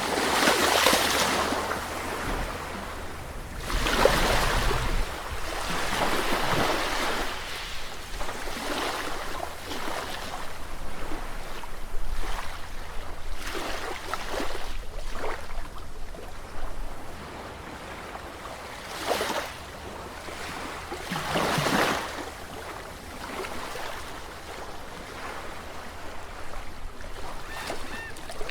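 Sea surf: waves breaking and washing in, swelling and fading in irregular surges every few seconds, the strongest near the start.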